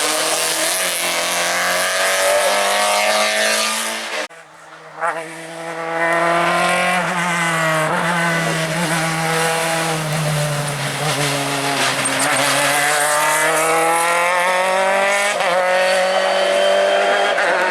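Race car engines revving hard and changing gear on a hillclimb, the pitch rising and falling. The sound cuts off sharply about four seconds in, and a second car's engine takes over, running at high revs to near the end.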